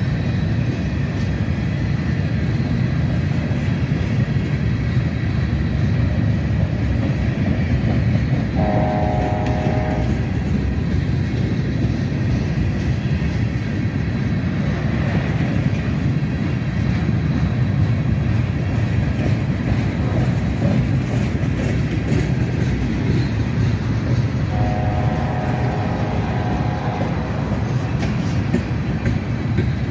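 Freight train rolling past, a steady rumble of railcars on the rails, with two locomotive horn blasts: a short one about a third of the way in and a longer one near the end.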